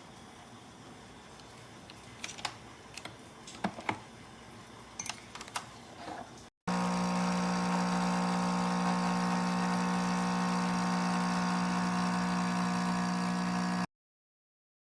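A few light clicks and taps, then a loud, steady mechanical hum with a strong low tone: a Nescafé Dolce Gusto Genio 2 coffee machine's pump running as it brews. The hum stops abruptly near the end.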